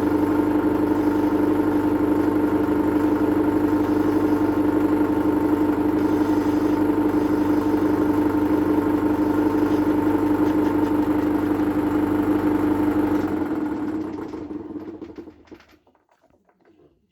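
Metal lathe running steadily while turning down the forged aluminium lip over the bearings of a supercharger's bearing plate. It is switched off about thirteen seconds in and spins down to a stop over a couple of seconds.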